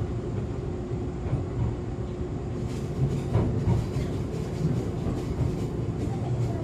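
Echizen Railway MC6101-series electric railcar running on bolsterless air-spring bogies, heard inside the car: a continuous low rumble of wheels on rail with a steady hum and a few rail-joint knocks.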